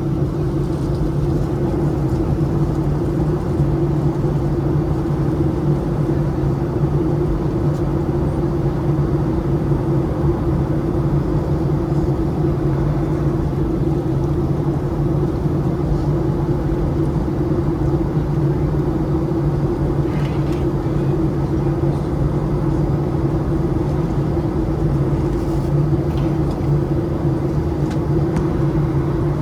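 Steady cabin noise inside a Boeing 737-700 airliner: an unchanging drone and rumble from its CFM56-7B turbofan engines and the airflow, with a low steady hum running through it.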